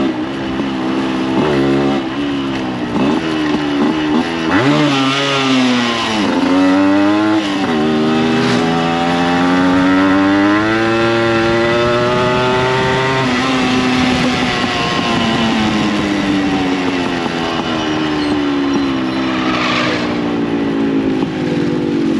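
Yamaha RX100's two-stroke single-cylinder engine, fitted with an aftermarket expansion-chamber exhaust, ridden hard. It gives several short bursts of revs in the first few seconds, climbs in revs for about five seconds from about eight seconds in, then drops and runs steadier with the revs slowly falling.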